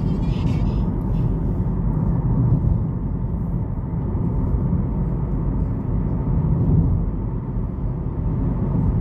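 Car driving through snow: a steady low rumble of tyres and engine that holds even throughout.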